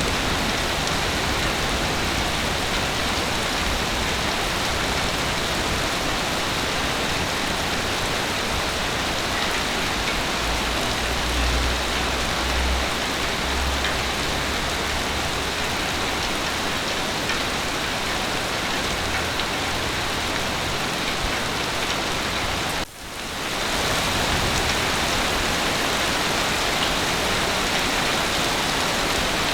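Heavy rain falling steadily, a dense even hiss. A low rumble swells about a third of the way in, and about three-quarters of the way through the sound drops out for a moment and fades back in.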